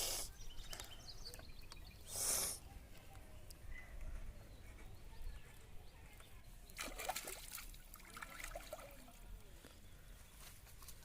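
Water sloshing and trickling, with a short loud splash-like hiss about two seconds in and a cluster of clicks and knocks around seven seconds in.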